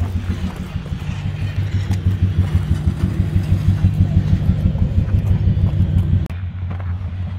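A car engine running with a steady low, pulsing rumble. The sound changes abruptly about six seconds in, to a slightly quieter rumble.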